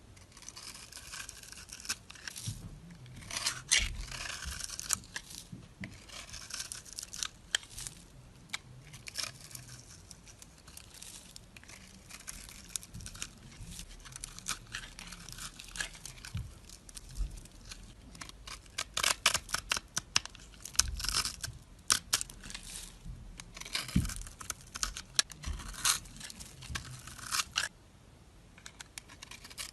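A knife cutting and carving soap, giving crisp, irregular crackling scrapes and clicks that come in uneven clusters.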